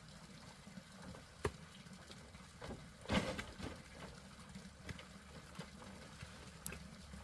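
Scattered light knocks and taps, the loudest about three seconds in, over a low steady hum.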